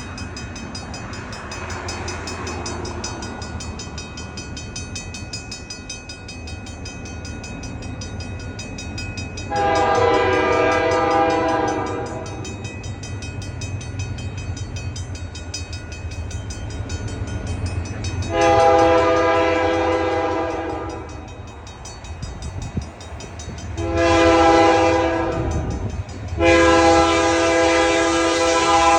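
Griswold mechanical crossing bell ringing rapidly and steadily while MLW RS18u diesel locomotives blow their horn for the crossing in four blasts, long, long, short, long; the horn blasts are the loudest sound. A low diesel engine rumble runs underneath.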